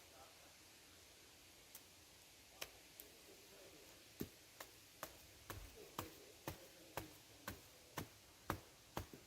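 Peg being hammered into the ground: a few scattered knocks, then steady strikes about twice a second from about four seconds in.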